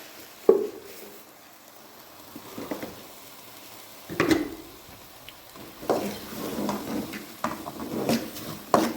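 Irregular clatter of dishes and utensils being handled, with a sharp knock about half a second in and busier clattering in the second half.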